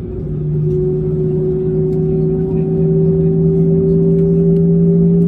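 Airbus A320neo's Pratt & Whitney geared turbofan engines heard from inside the cabin: a steady droning hum over a low rumble, its tones edging slowly higher and louder as engine power builds.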